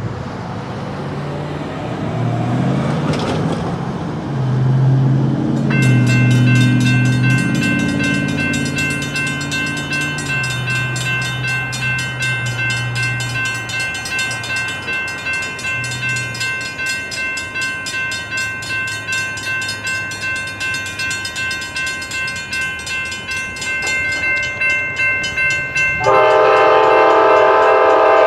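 A diesel locomotive's engine drones with shifting low tones. About six seconds in, grade-crossing warning bells start ringing steadily, and they keep ringing. Near the end a train horn blows loudly over the bells.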